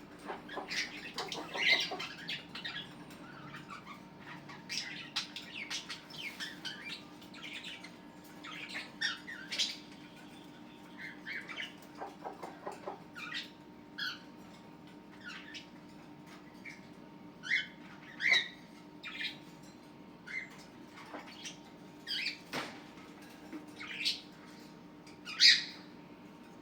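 A flock of pet cockatiels and budgerigars calling: scattered short chirps and squawks, some sharper and louder than the rest, over a steady low hum.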